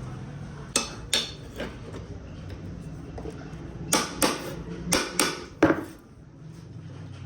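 Sharp metallic knocks and clanks of metal parts being handled or struck, about eight in all: three near the start and a quicker cluster of five in the middle, over a low steady hum.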